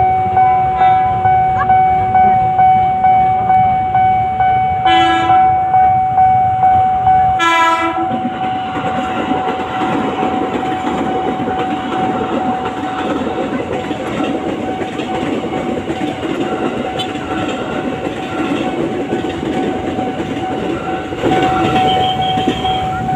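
A train gives two short horn blasts, about five and seven seconds in, then rolls past with a steady rumble and wheel clatter. Under it, a warning bell rings in pulses just under twice a second, loudest before the train arrives.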